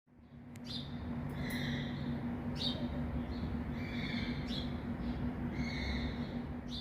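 Short bird calls repeating every second or so over a steady hiss and low hum, fading in at the start.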